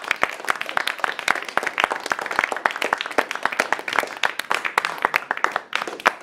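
A small audience clapping and applauding, with a few voices talking over the claps.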